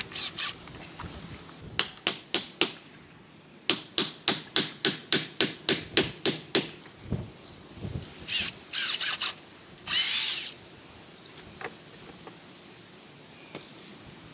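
Hammer blows while building a wooden concrete form: a few strikes, then a steady run of about a dozen at roughly four a second. Short bursts of a power drill follow.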